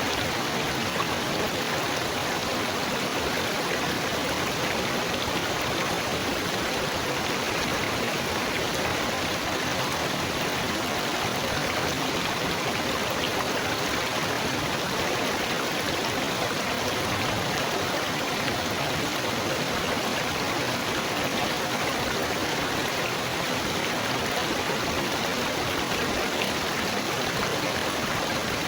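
Steady babbling, trickling water, a continuous even wash without pauses or distinct splashes.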